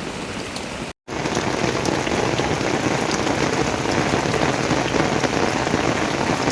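Heavy rain pouring steadily. The sound cuts out for an instant about a second in and comes back louder.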